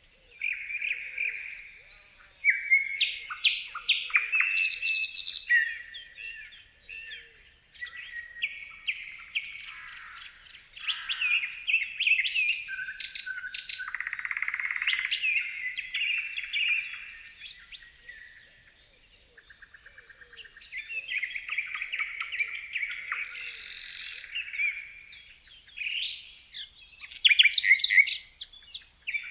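Small birds chirping and singing, a busy overlapping mix of short, varied phrases. It thins out briefly a little past the middle, where a rapid even run of ticks is heard, then picks up again.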